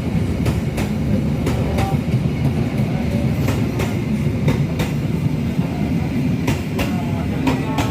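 A passing train: a steady rumble with repeated clacks of the wheels over the rail joints.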